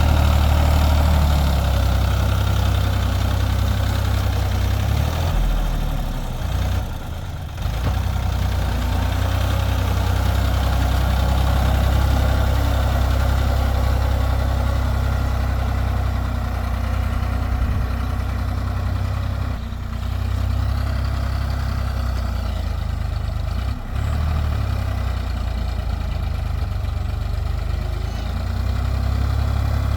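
Sonalika tractor's diesel engine running steadily with a low, heavy hum. The engine note drops briefly a few times, most clearly about seven seconds in.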